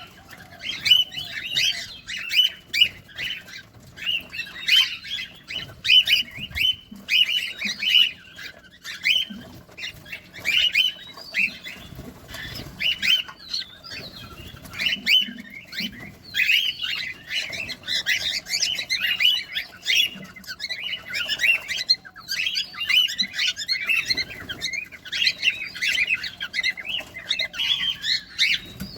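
Cockatiels chirping: a busy, continuous run of short, high chirps repeated several times a second.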